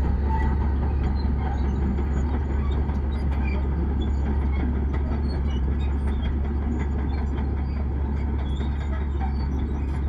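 Heavy diesel earthmoving machinery running steadily under load, a deep, even engine rumble.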